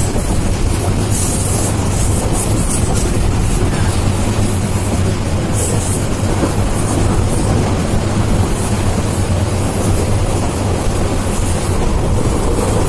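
Steady running noise of a fast express passenger train heard from inside a coach by the window: a continuous low rumble of the wheels on the track with a hiss of rushing air over it.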